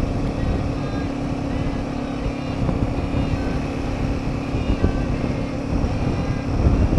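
Royal Enfield Himalayan 450's single-cylinder engine running steadily at cruising speed, with a constant drone and rumble mixed with wind rush.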